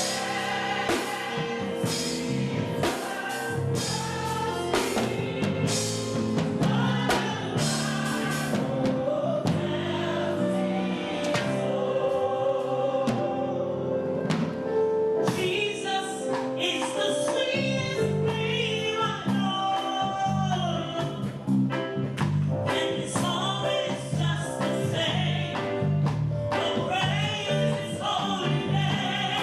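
Gospel music with voices singing together, choir-style, over instrumental accompaniment.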